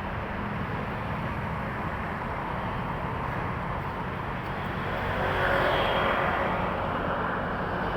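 Heavy highway traffic of trucks passing: a steady rumble of engines and tyres. About five seconds in it grows louder as a vehicle passes close, with a higher whining tone.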